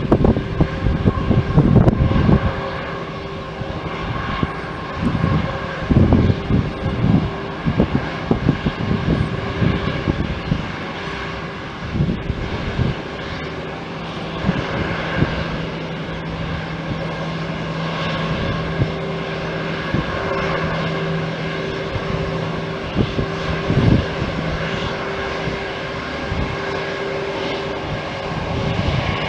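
Fixed-wing aircraft engines running with a steady whine of several held tones. Wind buffets the microphone with low rumbles, mostly in the first ten seconds.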